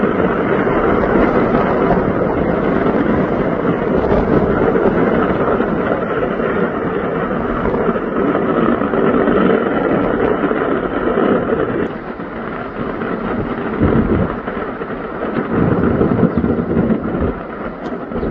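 Steady loud rushing noise of a large fire burning in the open, with wind buffeting the microphone, and a few low thumps in the second half.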